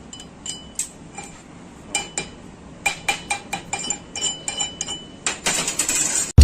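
Metal clinking: a series of sharp taps on steel, each ringing briefly, a dozen or so at uneven intervals. Near the end comes about a second of steady hiss.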